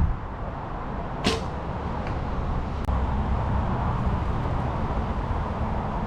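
An arrow shot from a bow: a short, sharp whoosh about a second in, followed by a faint tick, over a steady low rumble.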